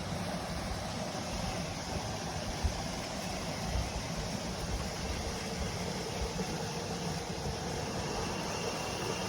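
Mountain stream rushing steadily, with a brief low thump about three seconds in.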